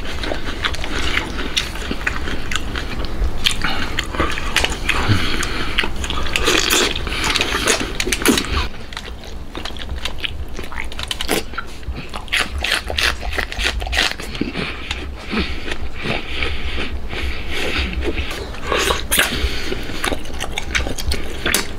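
Close-miked wet chewing and biting of soft smoked pork intestines, with many quick smacking and sucking mouth clicks.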